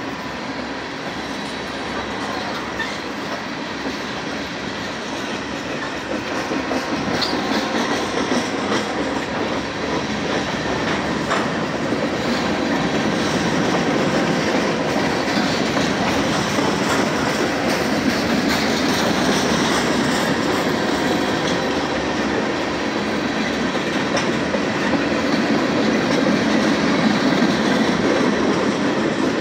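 Freight train cars rolling past at close range: the steady noise of steel wheels running on the rails, gradually getting louder.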